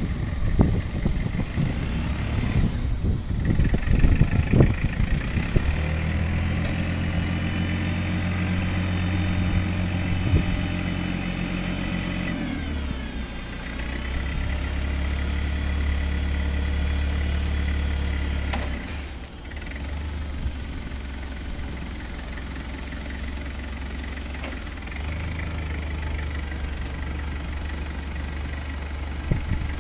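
Clark C25C forklift's LP-gas engine running, with its speed stepping up and down several times. A thin high whine rides over it for a while, then glides down and fades about twelve seconds in. The first few seconds hold a stretch of clattering knocks.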